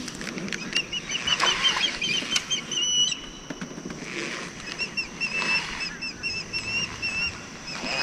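A bird calling in two quick runs of short, repeated high chirps, the first ending in a longer held note, with a few soft knocks in the background.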